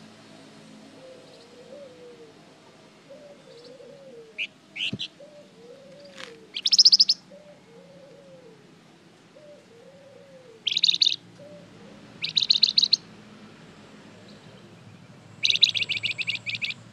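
Flamboyan bird singing in short, rapid chattering bursts of high notes, about five bursts each lasting a second or less, with gaps between them; the longest comes near the end.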